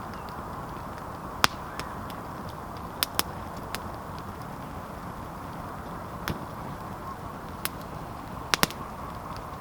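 Campfire crackling: sharp, irregular pops and snaps of burning wood, including a close double snap near the end, over a steady low hiss.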